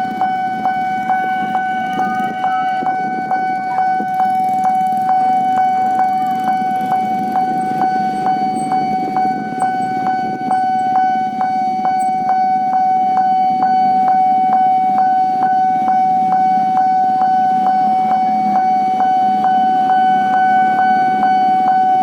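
Level crossing warning bell ringing steadily with a high electronic tone, struck about two and a half times a second, over a low rumble.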